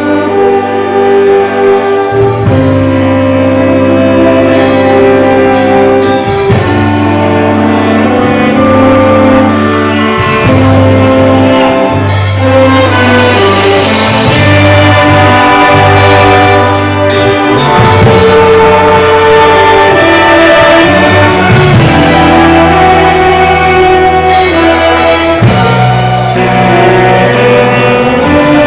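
Church orchestra with brass (trumpets, trombones, saxophones) playing a sustained instrumental introduction over bass and drums.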